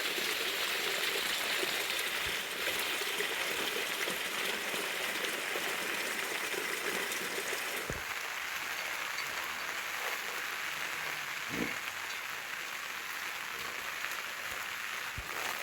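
Steady rain falling, an even hiss with a few faint scattered taps.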